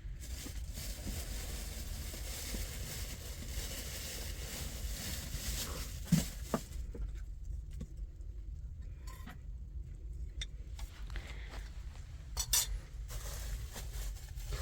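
A few sharp clinks and knocks, like dishes or utensils being handled; the loudest comes about six seconds in, and a quick cluster follows near the end. A steady low rumble runs underneath.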